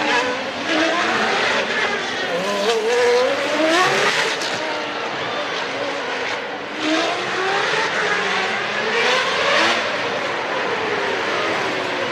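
Several 1993 Formula One cars' engines at high revs, their pitch climbing and dropping again and again as the cars accelerate, shift and pass.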